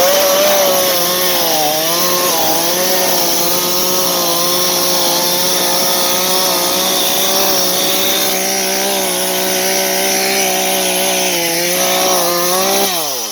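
Chainsaw revved up to high speed, held there for about 13 seconds with a brief dip in pitch about two seconds in, then let off so the engine note falls away.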